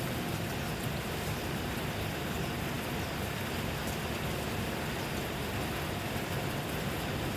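Rain falling steadily, a constant even hiss with faint drop ticks.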